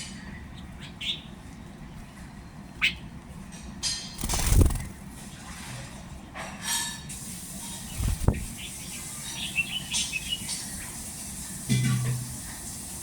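Small birds chirping in short, scattered bursts, broken by two dull thumps, one about a third of the way in and one about two thirds in.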